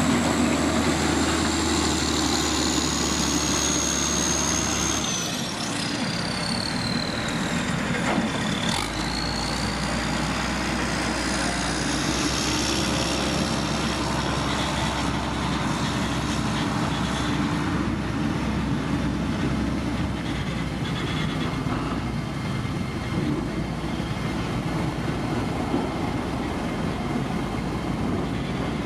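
Heavy diesel road-construction machinery running steadily, typically a motor grader working gravel. A high whine falls in pitch from about four to eight seconds in.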